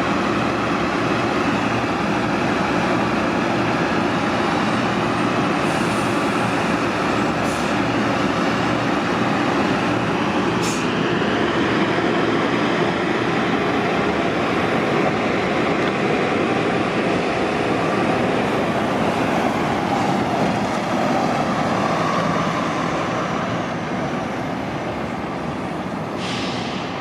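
City transit bus engines running steadily, heavy and continuous, easing off slightly near the end. A few brief hisses cut through, the longest near the end.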